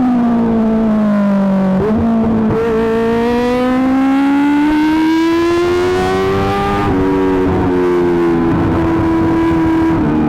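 Kawasaki ZX-25R inline-four engine through an Akrapovic GP titanium exhaust, revving hard. Its pitch falls, jumps up sharply about two seconds in, then climbs steadily for about five seconds under acceleration. Near the seven-second mark it drops suddenly, as at an upshift, and then holds fairly steady.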